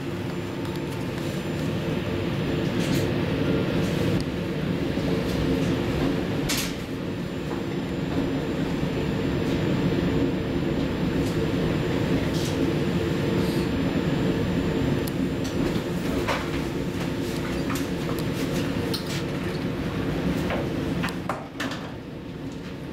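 VR Sm4 electric commuter train running, heard from inside the carriage: a steady rumble with a hum of several steady tones, broken by scattered sharp clicks and knocks.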